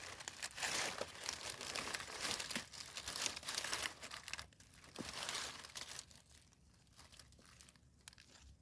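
Rustling and crackling of dry leaf litter and soil as termite mushrooms are picked by hand from the ground, irregular with small snaps; it goes much quieter about six seconds in.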